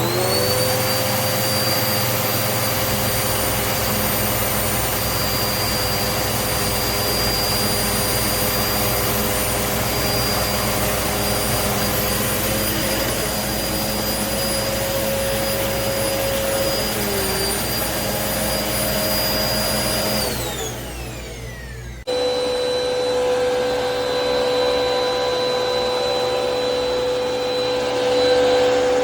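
Hoover upright vacuum cleaner switched on, its motor spinning up to a steady whining run, then winding down with a falling whine about twenty seconds in as it is switched off. A couple of seconds later a vacuum motor is running steadily again, starting abruptly with a different, stronger whine.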